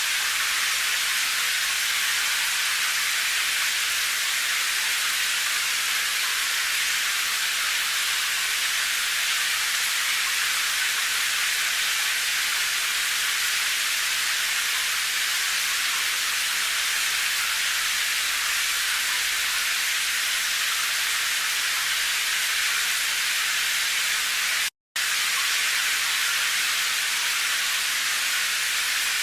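Steady rain as a continuous, even hiss, with no separate drops or patter standing out. Near the end it cuts out completely for a split second, then carries on unchanged.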